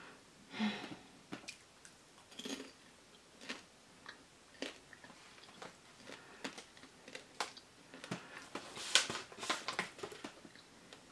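A person chewing a mouthful of spiced popcorn: irregular soft crunches, coming thicker near the end.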